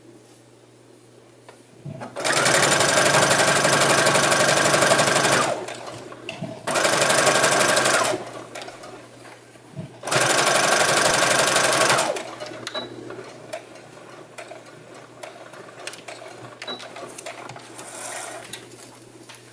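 Electric sewing machine stitching in three runs: a long one about two seconds in, a short one, then another, with quiet pauses between.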